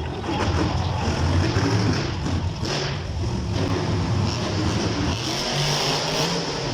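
Monster truck engines running loud, the engine note shifting up and down in pitch as the throttle is worked.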